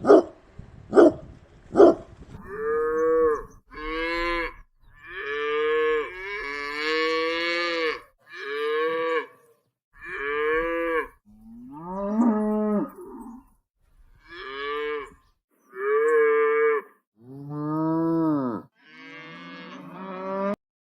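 Three sharp dog barks in the first two seconds. Then cattle moo in a series of about eleven calls, some short and some drawn out, a few bending in pitch.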